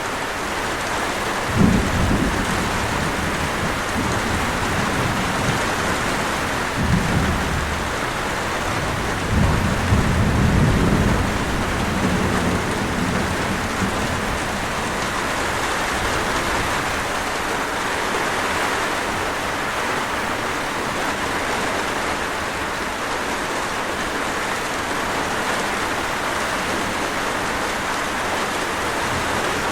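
Heavy, steady rain falling, with low rolls of thunder about two seconds in, again around seven seconds, and a longer roll from about ten to thirteen seconds.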